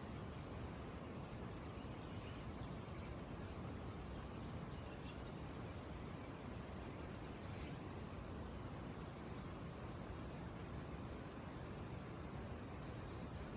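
Crickets chirring in a continuous high-pitched din, over a low, even background rumble.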